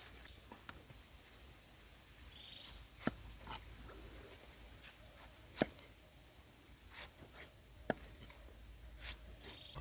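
Scattered sharp clicks and knocks, about seven in all and a second or so apart, typical of hands handling food and utensils, over faint chirping of insects and birds.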